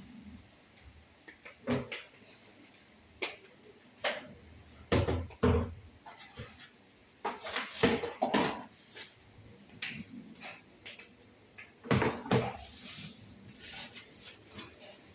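Irregular knocks, bumps and clatter of objects being handled and set down, with a few louder thumps about five, eight and twelve seconds in.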